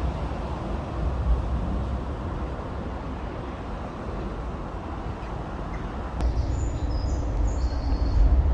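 Steady roar of motorway traffic, with wind rumbling on the microphone. A few short bird chirps come in near the end.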